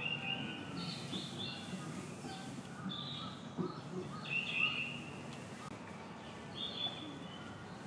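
Birds chirping: short high calls in several clusters, over a low steady background murmur.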